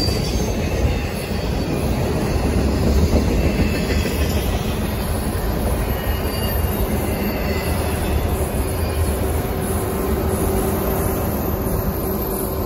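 Union Pacific freight cars, double-stack container cars followed by work-train flatcars, rolling past: a steady rumble of steel wheels on rail, with faint high wheel squeals over it.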